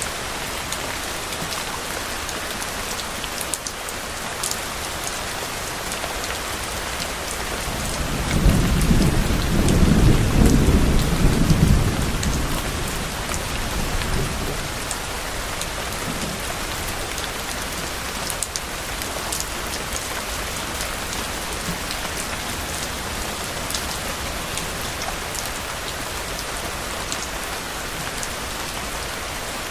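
Steady rain falling, with one low roll of thunder that builds about a quarter of the way in, rumbles for a few seconds and fades away.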